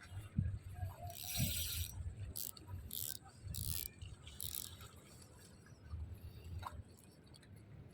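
Fishing reel being cranked in short spells, a few brief mechanical whirring, rattling bursts in the first half, over low handling rumble.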